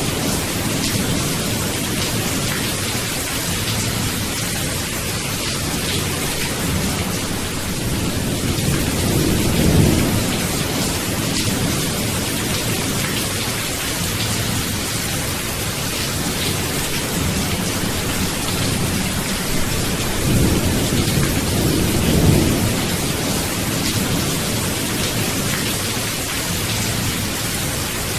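Steady rain with low rolls of thunder, one about ten seconds in and another a little after twenty seconds.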